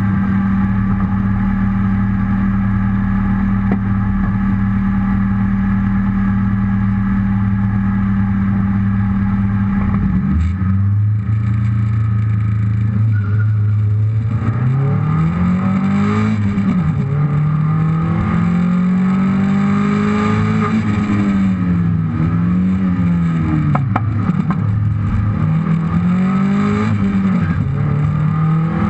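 Rally car engine, heard from a low-mounted onboard camera. It runs at steady revs while the car waits at the stage start. About ten seconds in the note changes as the car moves off, and from about halfway the revs rise and fall again and again as the car accelerates and slows along the stage.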